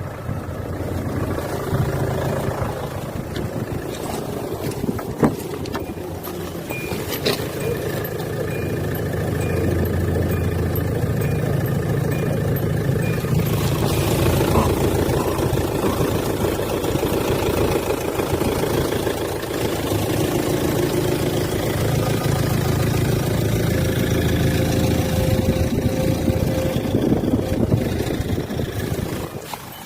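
2004 Hyundai Santa Fe's engine running steadily.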